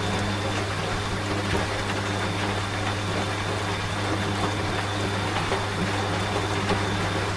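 Washing machine running with a steady low hum, mixed with falling rain.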